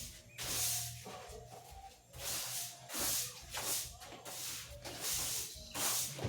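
Repeated short swishing, rubbing strokes, roughly one or two a second, over a faint steady hum.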